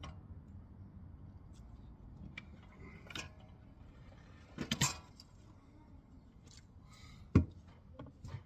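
Metal hand tools and parts clinking and knocking while being handled: a few scattered clicks, a short rattle about halfway through, and one sharp knock near the end, the loudest.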